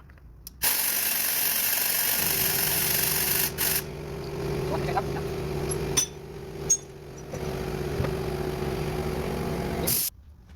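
A power tool running in a workshop: a steady hiss with a hum beneath it that starts abruptly about a second in, drops briefly twice, and cuts off shortly before the end.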